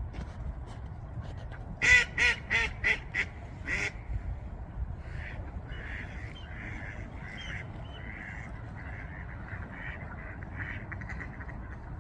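Duck quacking: a series of about six loud, evenly spaced quacks, then a run of softer, quicker calls.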